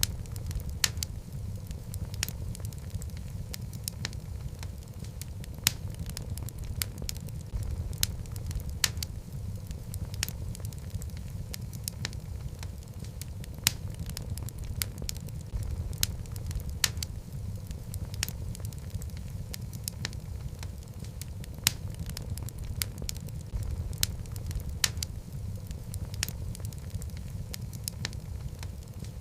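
Wood fire in a fireplace burning steadily: a low rumble of flame with many sharp, irregular crackles and pops from the burning logs.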